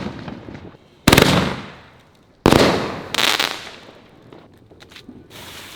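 Consumer fireworks going off at close range: two loud bangs about a second and a half apart, each followed by a fading crackling hiss, then a few faint scattered crackles.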